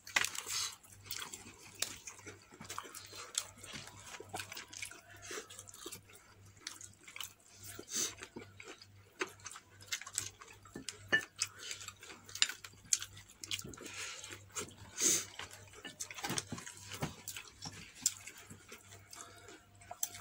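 Close-up eating sounds of fried chicken being chewed: irregular small crunches, lip smacks and wet mouth clicks, with a few louder ones scattered through.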